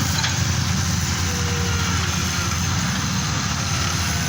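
A motor engine running steadily with a low drone.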